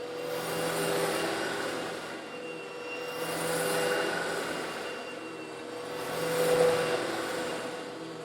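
Old Eureka vacuum cleaner running with a steady motor hum while sucking up coarse stone granules a little larger than sand, the grit rattling through as it is drawn in. The sound swells and eases every two to three seconds as the nozzle is pushed back and forth.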